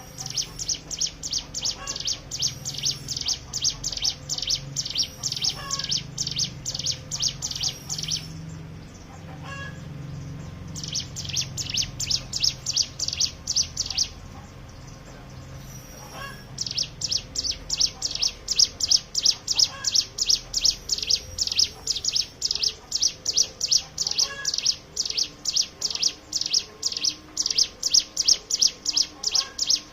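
Hill prinia (ciblek gunung) singing its rapid 'ngebren' song: fast runs of sharp, high notes, about four a second. It sings three bouts, with short breaks about eight seconds in and again around fourteen to seventeen seconds in.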